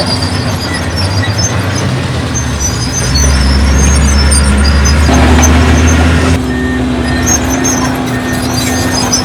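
Heavy diesel earthmoving machinery running, its engine louder and heavier for a few seconds in the middle, with high metallic squeaks over it.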